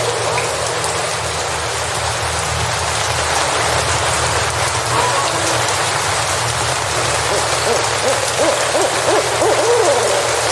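Steady rain hiss, with a series of wavering, rising-and-falling animal calls coming in about two-thirds of the way through and running to the end.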